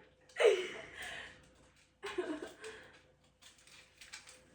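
Two short vocal sounds, each falling in pitch, about a second and a half apart, like a murmur or sigh. A few faint clicks follow near the end.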